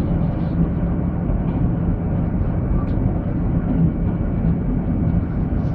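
Steady running noise of a diesel regional train heard from inside the carriage: a low rumble of wheels on the track with a constant engine drone.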